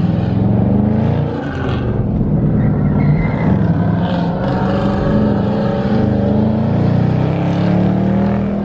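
Car engine revving hard and held at high revs, its pitch rising and falling.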